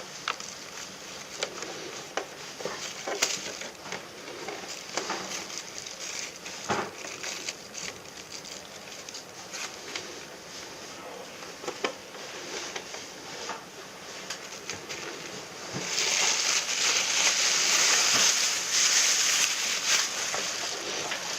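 Hands at work on an air conditioner: scattered small clicks, knocks and rustles, then a louder steady hiss for about five seconds near the end.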